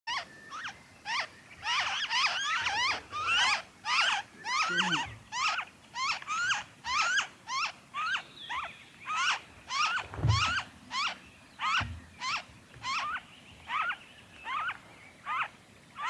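Noisy friarbird nestlings begging at the nest: a long, regular series of short rising calls, about two a second.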